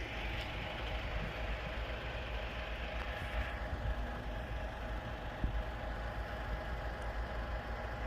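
Dump truck's engine running steadily.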